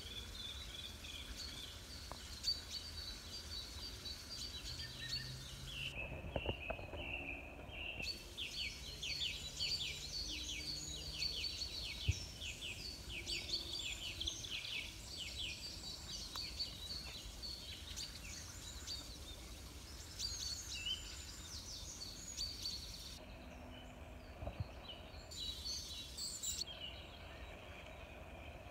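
Wild birds singing and calling, with one bird's fast, rapidly repeated song running from about six to thirteen seconds in, over a steady low background rumble.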